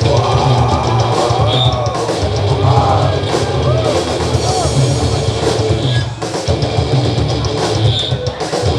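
Live rock band playing an instrumental passage: loud, distorted electric guitar with bending notes over a pounding drum kit, bass and crashing cymbals.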